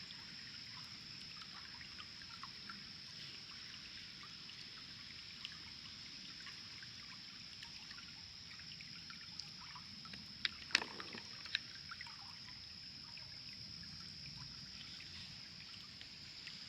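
Small creek water trickling and splashing over rocks, with a cluster of sharp clicks or knocks a little past halfway.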